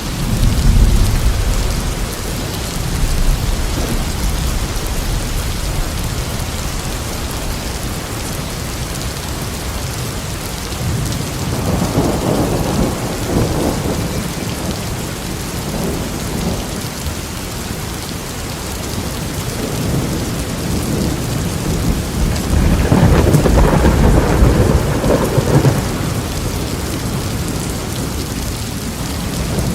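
Thunderstorm: steady heavy rain with rolling thunder, a deep rumble about a second in, another around twelve seconds, and the loudest long roll of thunder a little past twenty seconds.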